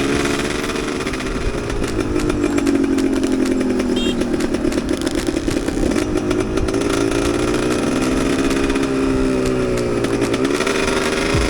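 Enduro motorcycle engine running under throttle as it is ridden, its pitch falling and rising several times, with a quick dip and climb back near the end.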